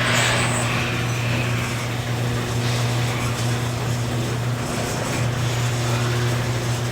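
A motor or engine running steadily with a constant low hum, over a background hiss.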